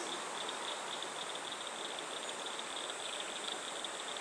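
Steady rush of flowing river water, with an insect chorus trilling high above it.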